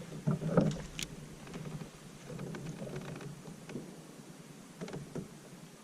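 Water splashing and sloshing against a fishing kayak, with several light knocks and taps on the hull, the loudest in the first second.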